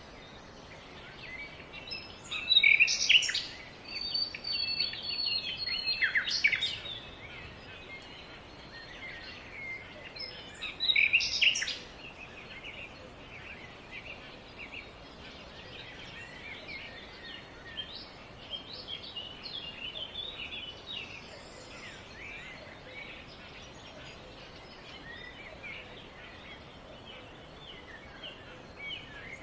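Birds chirping and calling, with loud close bursts about three, six and eleven seconds in, then a busier spell of softer chirps, over a steady background noise.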